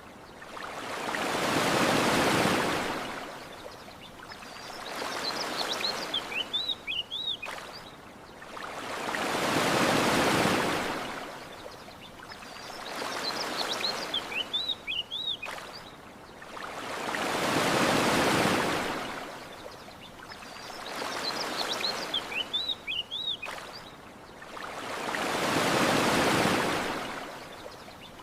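Ocean waves breaking and washing up a shore, swelling and fading in an even cycle with a big wave about every eight seconds and a smaller one between. Small birds chirp in the lulls between waves.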